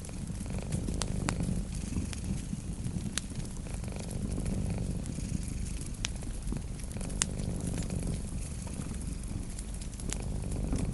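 Cat purring steadily and close, with a wood fire crackling: sharp pops every second or two over the purr.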